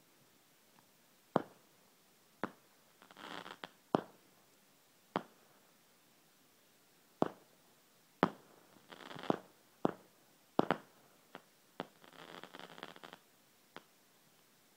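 Fireworks going off: about fourteen sharp bangs at uneven intervals, with three stretches of crackling, each about a second long.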